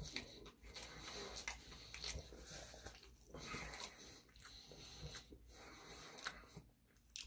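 Faint chewing of a mouthful of sushi, with soft breathing through the nose.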